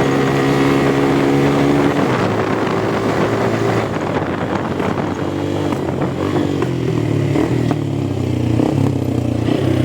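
A motorcycle engine running under way. Its note holds steady for about two seconds, then drops and rises and falls with the throttle.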